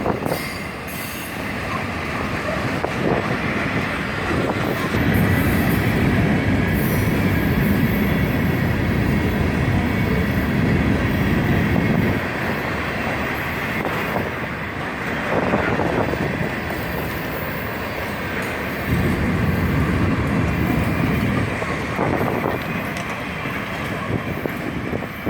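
Freight train cars rolling past with a steady rumble and rattle of wheels on the rails. A faint wheel squeal runs through it, and the low rumble swells twice, about five seconds in and again near nineteen seconds in.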